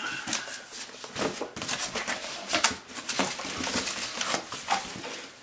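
Cardboard boxes and packing paper being handled: irregular rustling, crinkling and scraping as a shipping box is opened and its packing paper pulled out.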